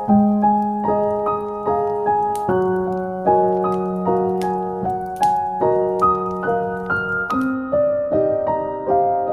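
Slow solo piano music: notes in an even broken-chord pattern over a held bass note, with the harmony shifting about every two to three seconds.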